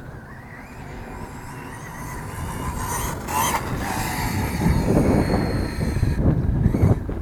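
Brushless electric motor of a 1/8-scale RC truck with a Castle Mamba X system whining and rising in pitch as it accelerates. Tyre and driving noise grows louder, loudest about two-thirds of the way through.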